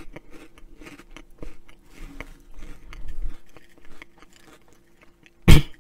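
Close-miked mouth crunching and chewing on Flamin' Hot Cheetos, an irregular run of crisp crunches over the first few seconds, then a brief loud vocal sound near the end.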